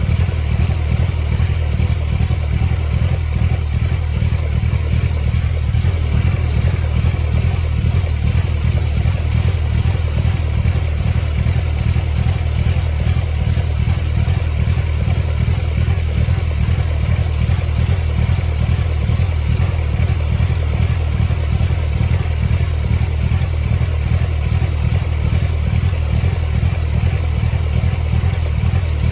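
1999 Mercedes-Benz C230 Kompressor's supercharged four-cylinder engine idling steadily with an even low pulsing, running with its mass airflow sensor and idle air control valve unplugged while a fault that flashes the check engine light is being traced.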